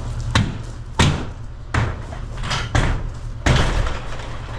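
Five loud bangs and knocks, spaced about a second apart, over the steady low running of a diesel engine: demolition impacts on a single-wide mobile home, with the Caterpillar 306 excavator's engine running.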